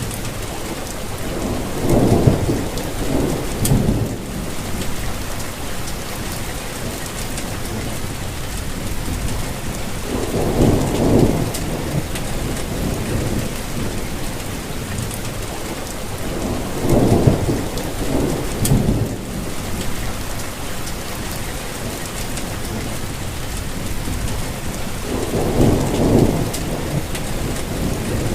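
Steady rainfall, a dense even patter, with four low rumbles swelling and fading about every seven to eight seconds.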